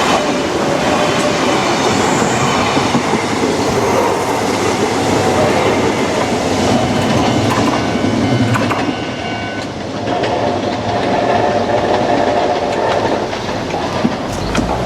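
Kintetsu Nagano Line electric train passing over a level crossing, its wheels clattering over the rail joints, with the crossing's warning bell ringing.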